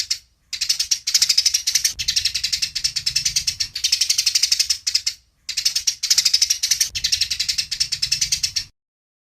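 Eurasian tree sparrow giving rapid, chattering fighting chirps, about ten a second, in bouts of one to two seconds with brief pauses; the calling stops near the end.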